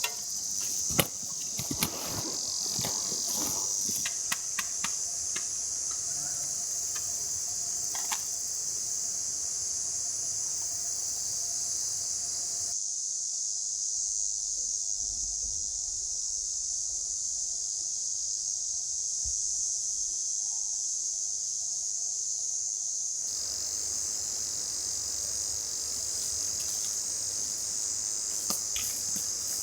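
Chorus of insects trilling steadily at a high pitch. A run of sharp clicks and knocks comes in the first few seconds.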